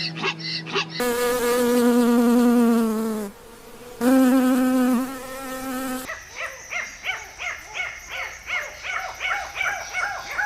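Animal calls: two long, slightly wavering calls of about two seconds each, then a fast series of short chirping calls, about three a second.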